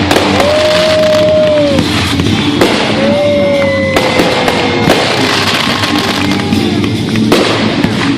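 Aerial fireworks going off: several sharp bangs over dense crackling, with music playing along.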